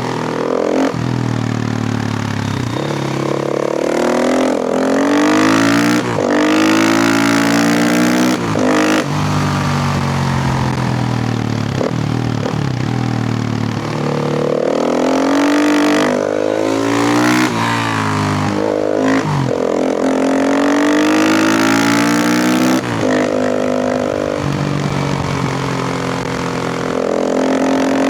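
KTM EXC 450's single-cylinder four-stroke engine revving hard through the gears: the pitch climbs under throttle and drops sharply at each shift or throttle chop, again and again.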